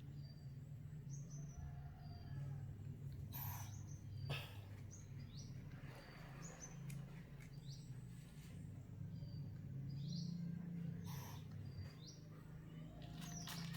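A bird chirping in short, high, scattered calls, with a few sharp knocks and a steady low hum underneath.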